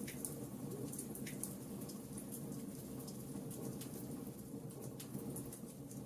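Wood fire in a fireplace crackling: frequent small, irregular pops over a low, steady rumble of the flames.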